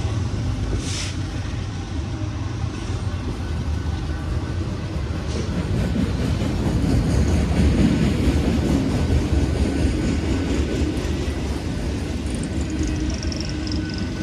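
Intermodal freight train rolling past: a steady rumble of wheels on rail. There is a brief hiss about a second in, and a high whine falls in pitch near the end.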